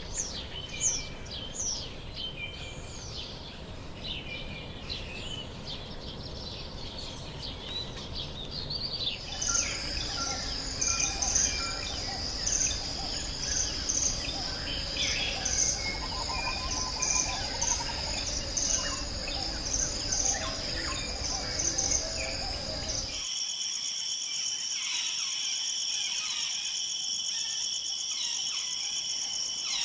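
Forest ambience: several birds calling for the first third. Then it changes abruptly to a steady, high insect chorus with birds calling over it. Near two-thirds of the way through it changes abruptly again to a different steady insect chorus in two high tones.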